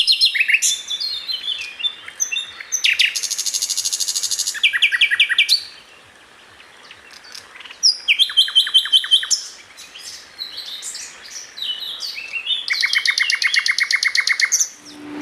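A songbird singing a varied song of quick whistled notes and fast, buzzy trills, with a short pause about six seconds in.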